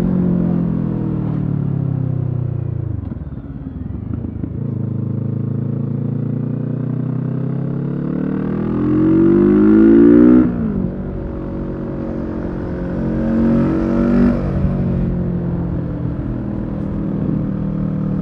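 Kawasaki Z650 parallel-twin engine through a Leo Vince EVO carbon aftermarket exhaust, ridden on the road. The engine note falls away for the first few seconds, then climbs steadily under acceleration until about ten seconds in, where it drops sharply. It then runs on at moderate revs with a brief rise a little later.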